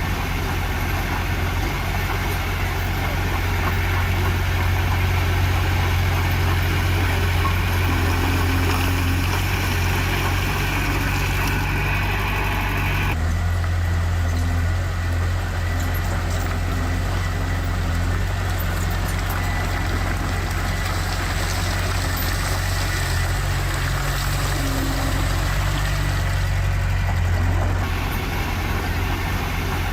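Heavy diesel earthmoving machinery running steadily with a deep engine hum. The sound changes abruptly about 13 seconds in and again near the end.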